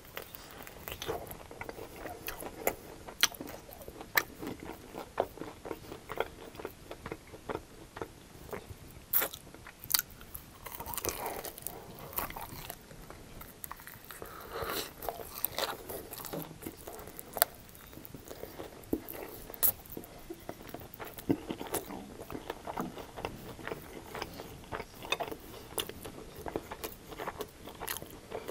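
Close-up biting and chewing of crunchy breaded fried chicken wings: repeated sharp, crackly crunches as the coating breaks, with chewing between bites.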